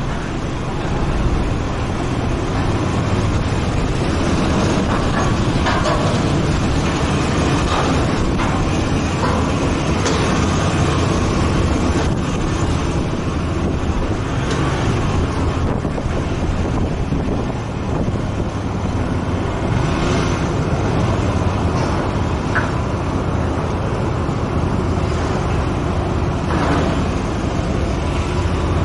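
Motorcycle engine running steadily while riding along a road, mixed with road and wind noise.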